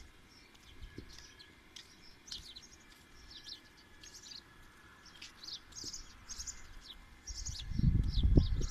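Small birds chirping repeatedly, many short high calls through the whole stretch. A loud low rumble comes in about seven seconds in.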